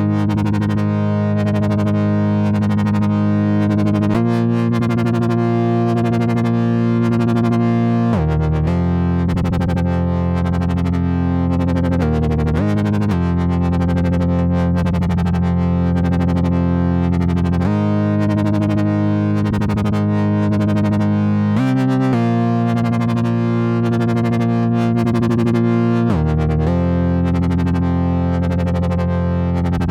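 Sequential Fourm four-voice analog polysynth playing a factory preset dry, without effects: held chords over a strong low bass, changing about every four seconds, with a fast flutter in the upper tones.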